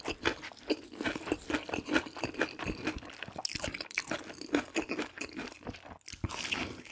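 Close-miked crunching and chewing of deep-fried menbosha (shrimp toast), with many crisp, irregular crunches as the fried bread crust breaks between the teeth.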